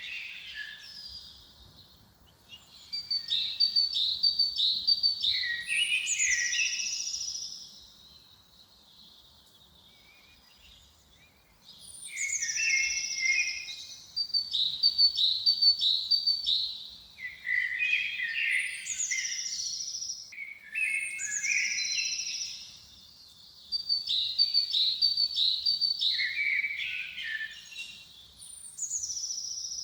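A songbird sings the same short phrase over and over. Each phrase starts high and steps down through a quick run of notes, with short pauses between phrases and a longer lull in the first half.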